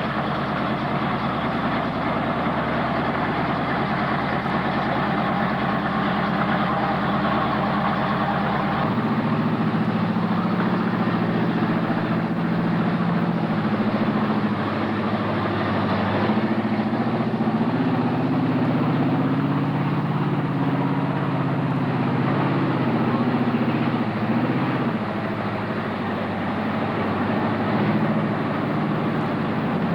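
Truck engine running steadily at idle. At about nine seconds it changes abruptly to an engine note that wavers up and down in pitch.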